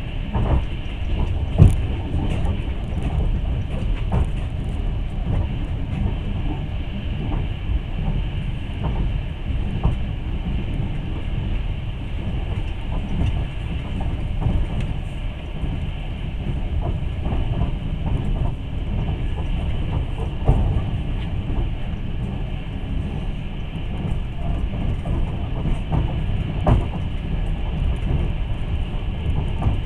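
Passenger train running along the track, heard from aboard a carriage: a steady low rumble with occasional sharp knocks, the loudest about two seconds in.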